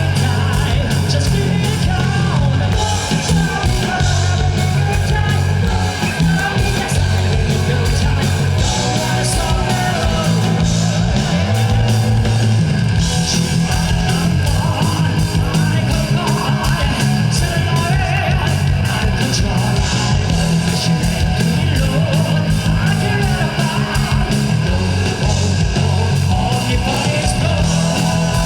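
Live rock band playing loudly, with electric guitar, a driving bass line and drums, and shouted vocals.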